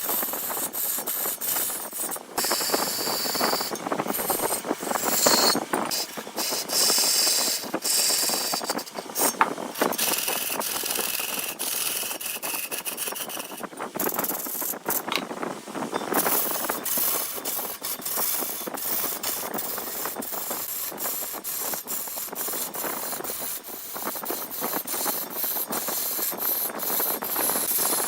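A turning tool cutting into wood spinning on a big wood lathe: a continuous rough, rattling scrape full of quick clicks. A faint high whine joins it from about ten to fourteen seconds in.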